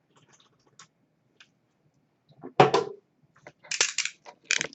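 A trading-card hobby box being handled on a table: a single thump about two and a half seconds in, then several short rustling scrapes near the end, with light clicks before.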